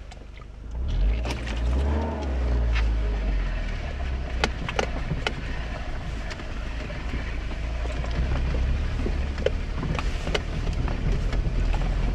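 Mercedes car's engine running low and steady, heard from inside the cabin as the car pulls away from a stop and creeps forward at low revs. Scattered sharp clicks and knocks sound over it.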